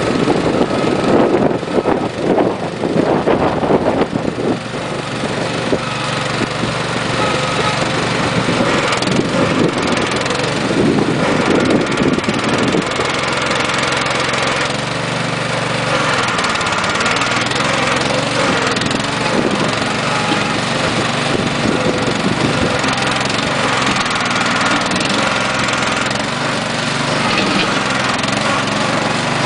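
Small garden tractor engine running, rough and uneven for the first few seconds, then settling into a steady run.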